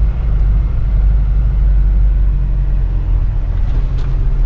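Isuzu NPS 4x4 truck's diesel engine and drivetrain running steadily while driving on a sand track, a constant low rumble.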